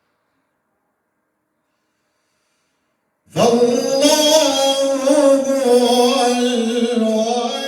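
Silence for about three seconds, then a male Quran reciter's voice comes in with one long, held melodic phrase, its pitch wavering in ornaments, fading near the end.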